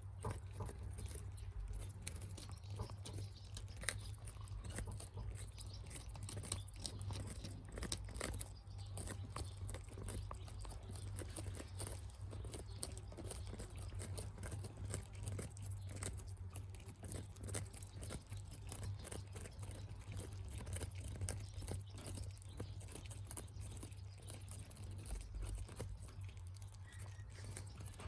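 Budgies pecking and chewing food: a steady, irregular stream of small crunching clicks, over a low steady hum.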